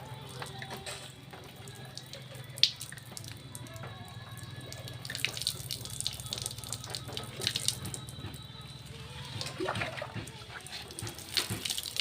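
Water running and splashing in stretches, with a single sharp knock about two and a half seconds in, over a low steady hum and faint music.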